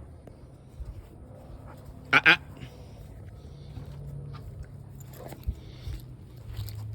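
A dog making two short sounds close together, about two seconds in, over a low steady hum.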